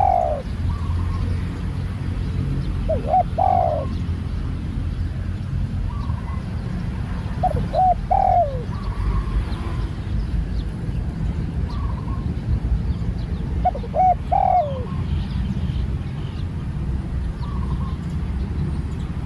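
Spotted dove cooing: four short phrases of a few notes each, the last note falling away, spaced several seconds apart. A steady low rumble and faint chirps of other birds run underneath.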